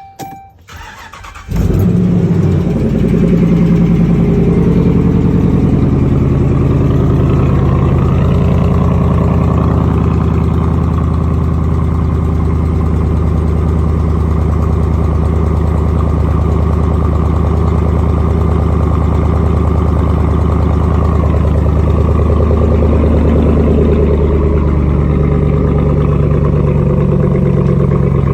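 Tuned engine with a straight exhaust starting about a second and a half in, then running steadily with a loud, deep exhaust note that shifts slightly in pitch now and then.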